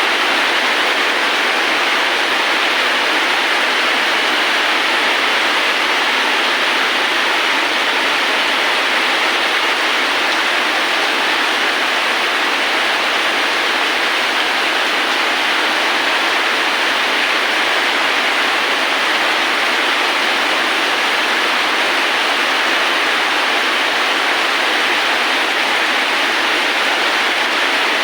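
Steady rain, an even, unbroken hiss with no single drops or other sounds standing out.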